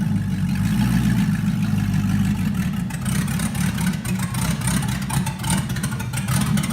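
Swapped-in 5.3-litre LS V8 of a 1990 Toyota Land Cruiser FJ62, just started and running with a steady low drone.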